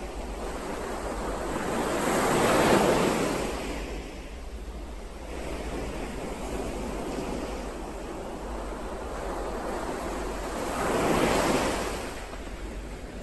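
Ocean waves washing in as surf. Two waves swell up and fall away, about eight and a half seconds apart, over a steady wash and low rumble.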